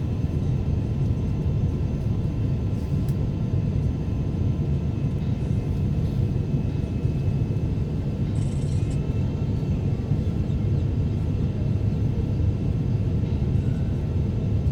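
Steady low rumble of an Airbus A350 airliner in flight, heard inside the passenger cabin, with faint steady whining tones above it.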